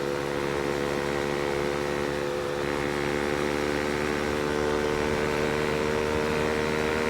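Bajaj Pulsar NS200 single-cylinder engine running through an SC Project aftermarket exhaust, held at a steady speed with no pops.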